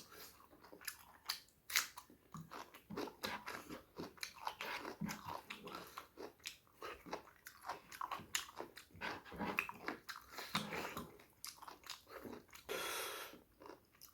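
Close-miked chewing and biting of pork curry, liver and ribs with rice: many short, wet mouth clicks and smacks. About 13 s in, a longer breathy noise.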